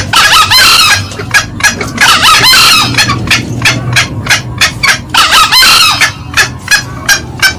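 Green junglefowl calling: a fast, steady run of short cackling notes, a few a second, with three longer rough calls of about a second each, near the start, at about two seconds and at about five seconds. These are the loud male and female calls used as a lure call.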